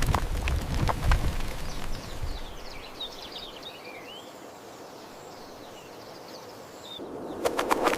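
Birds chirping with short rising and falling calls over a steady outdoor hiss. In the first two seconds a loud low rumble comes with several sharp knocks, and a few more clicks come near the end.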